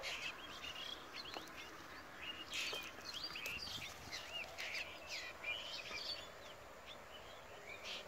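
Small birds chirping: many short, quick calls that bend up and down in pitch, scattered over a faint steady background hiss.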